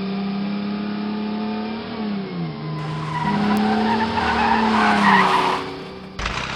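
Cartoon car sound effects: a steady engine hum that dips in pitch about two seconds in, then a tyre skid screeching for about two seconds. A different sound cuts in near the end.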